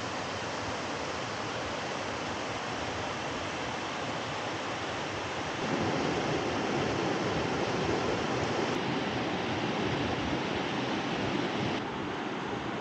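River water rushing, a steady noise that gets louder about six seconds in and drops back near the end.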